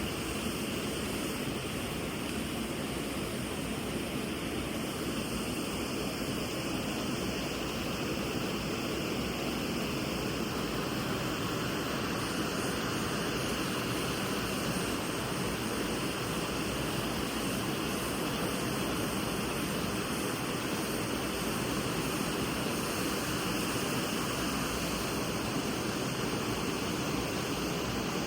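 A mountain river flowing fast: a steady rush of running water, even throughout.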